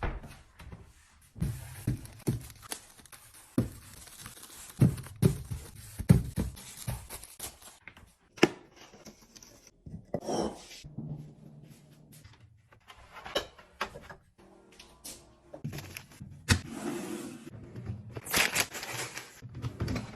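Close-up handling sounds: irregular knocks and thunks of objects being picked up and set down, with scraping, and a stretch of rustling, crinkling noise near the end.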